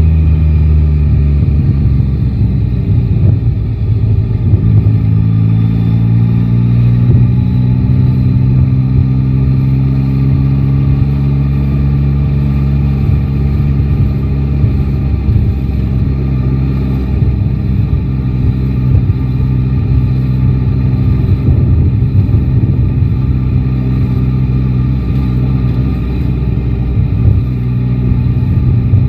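Yamaha Tracer 9 GT motorcycle's inline three-cylinder engine running on the road. Its note rises over the first several seconds as the bike accelerates, then holds fairly steady at a cruise, over a low rumble of wind on the microphone.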